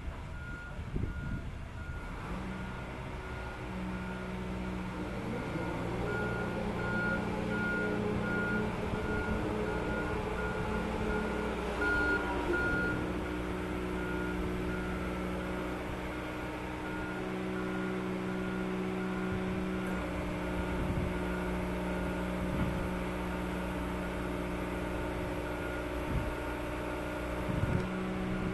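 Machinery moving the yacht sounds a warning beeper, a steady series of short high beeps, over the steady low running of its motor or hydraulic drive.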